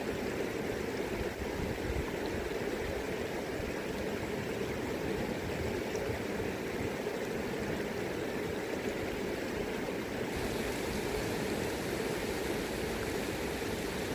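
River water flowing, a steady rushing of the current.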